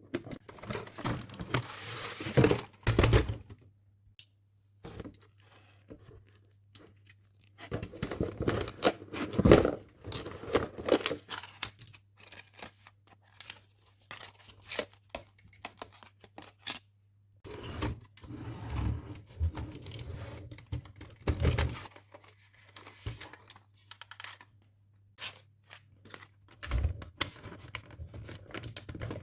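Hands handling plastic toy parts and packaging: bursts of rustling and crinkling with many small plastic clicks, broken by short pauses, over a faint steady low hum.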